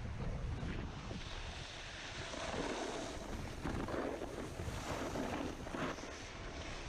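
Wind buffeting the microphone, with the hiss of a snowboard sliding and scraping over icy snow, swelling and fading several times.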